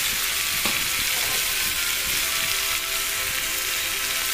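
Chopped onions, tomatoes and green chillies sizzling steadily in hot oil in a nonstick frying pan, the tomatoes softening into a masala base.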